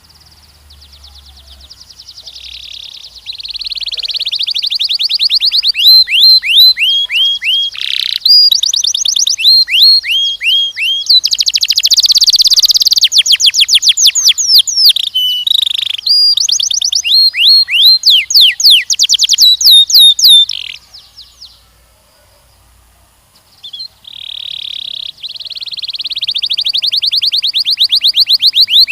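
A canary singing long rolling trills of rapidly repeated downward-sweeping notes, growing louder over the first few seconds. The song breaks off about three-quarters of the way through and starts again a few seconds later.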